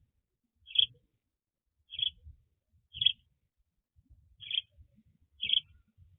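A bird giving short, high chirps, five of them about a second apart, with faint low knocking and rustling between the calls.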